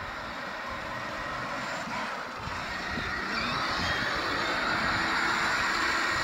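A vehicle approaching, its noise growing steadily louder as it nears.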